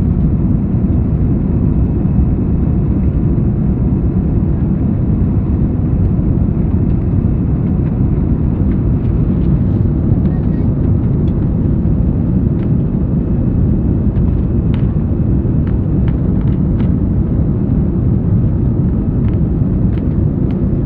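Steady roar of engine and airflow noise inside the cabin of an Airbus A330-200 climbing out after takeoff, heaviest in the low end, with a few faint short ticks over it.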